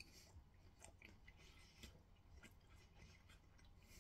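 Faint close chewing of a breadcrumb-coated mac and cheese bite: soft, irregular mouth clicks and light crunches over a low room hum.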